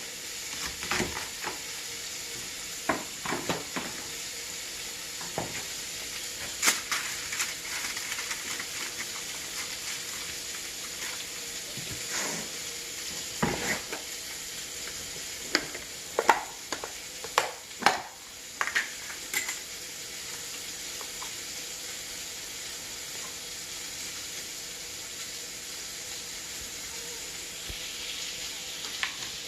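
Bacon-wrapped asparagus sizzling on a grill in a steady hiss, with scattered clicks and metal clinks as the food is handled, mostly in the first two-thirds.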